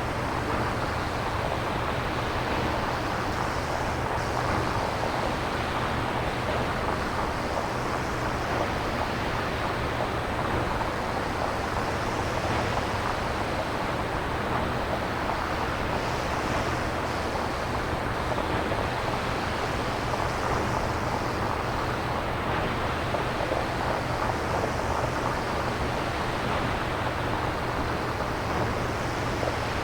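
Synthesized nature-sound noise: a steady hiss like surf, its upper range swelling and fading about every four seconds.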